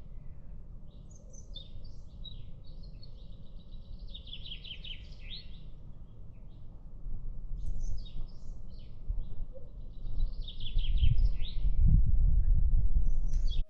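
A songbird singing two long phrases of rapid, repeated high notes and trills, over a low outdoor rumble that grows louder near the end.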